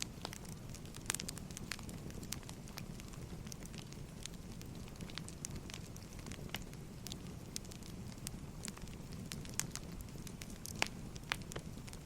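Burning firewood crackling: irregular sharp pops and snaps over a steady low rumble of flames.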